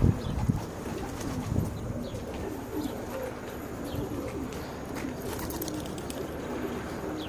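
Pigeons cooing: low, repeated soft calls, with a low thump right at the start.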